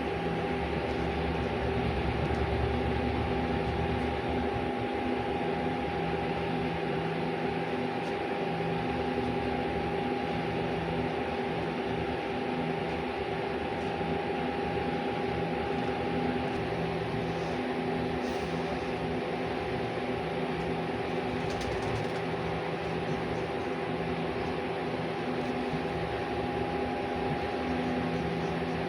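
Steady mechanical hum with several held tones, unchanging throughout.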